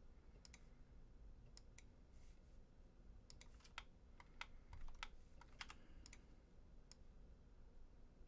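Faint, irregular tapping of computer keyboard keys: scattered single and paired clicks, busiest in the middle.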